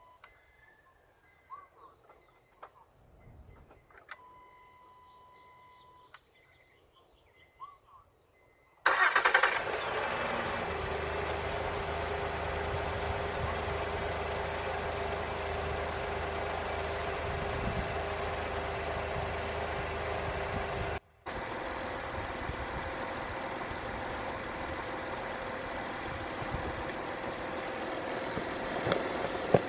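Faint electronic beeping, then about nine seconds in the Honda's 3.5-litre V6 cranks, catches quickly and settles into a steady idle: a test start after fitting a new fuel pump to cure a cold hard start.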